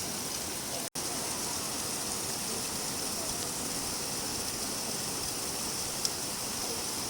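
Steady rain falling, an even hiss. The sound cuts out for an instant about a second in, and a single faint drop tick comes near the end.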